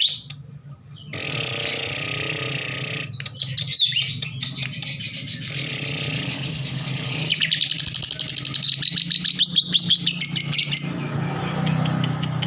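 Lovebird chattering, a dense run of high chirps that starts about a second in and turns into a fast, rapid chatter past the middle. A low steady hum runs underneath.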